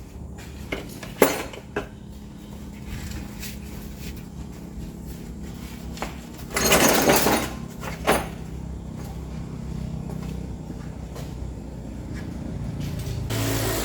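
Metal clanks and knocks from hand work on a truck, with a loud rattling burst of about a second a little past halfway, over a steady low hum.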